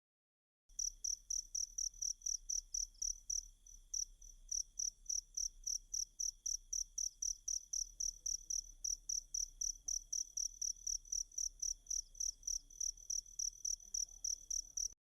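Recorded cricket song: a cricket chirping in a fast, even rhythm of about four high chirps a second, over a faint steady higher-pitched drone and a low hum. It starts abruptly about a second in and cuts off suddenly near the end.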